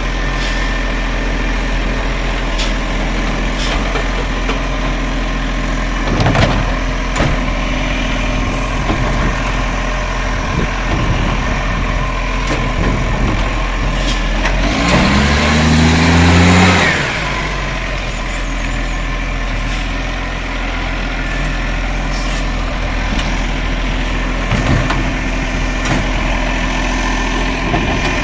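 Garbage truck's diesel engine idling steadily, with a few knocks. About fifteen seconds in, the engine revs up for about two seconds under a loud hiss, then drops back to idle.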